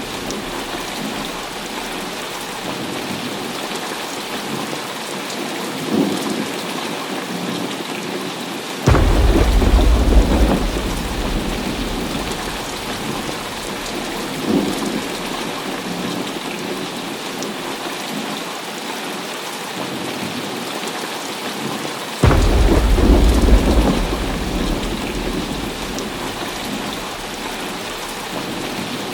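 Heavy rain falling steadily in a thunderstorm, with two sudden thunderclaps, one about a third of the way in and one about three quarters through, each a deep rumble that fades over a few seconds.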